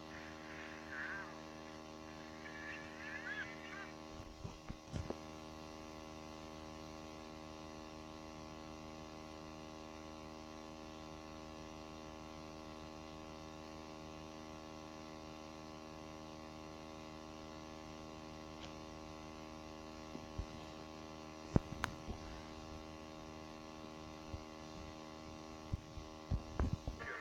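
Steady electrical mains hum, a low buzz made of many even tones. A few sharp clicks come about four to five seconds in, around twenty-one seconds in, and several near the end.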